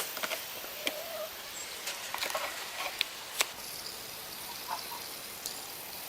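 Faint, short hen murmurs, with scattered light clicks and rustles in a chicken coop.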